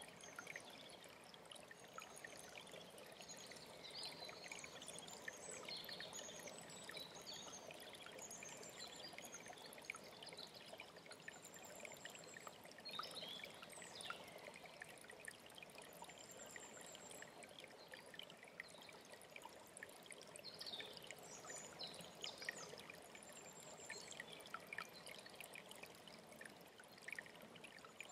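Faint alpine stream running steadily, with songbirds chirping and giving short high trills every few seconds over it.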